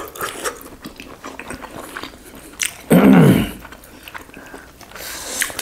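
Two people biting and chewing roast chicken pieces, a run of small clicks of eating. About halfway in comes a short, loud hum from one of them, falling in pitch.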